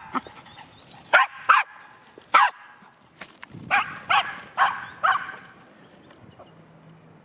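A dog barking, seven sharp barks in quick groups, stopping about five seconds in.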